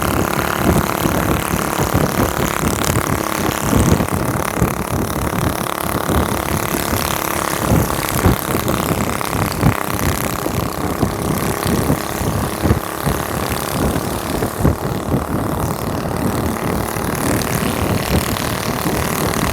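3.5 hp single-cylinder mini bike engine with a slide-throttle carburettor and a straight pipe, running steadily with a loud, rapid exhaust pulse.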